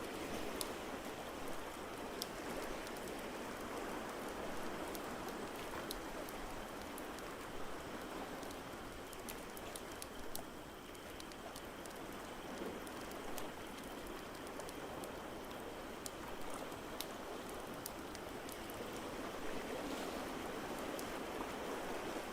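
Fireplace crackling, with frequent small sharp pops and snaps, over a steady rushing water sound that slowly swells and eases.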